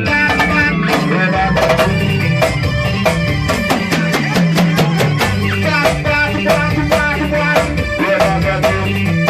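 A band playing an instrumental passage: a bass line stepping between notes under a steady, busy drum beat, with guitar on top.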